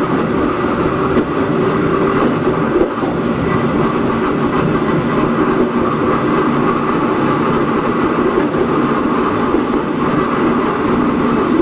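Hakone Tozan Railway Moha 1-class electric car running on the line, with its nose-suspended SE121-A traction motors and gears giving a steady whine. Wheels on the NA7 bogies roll over the rails with clickety-clack.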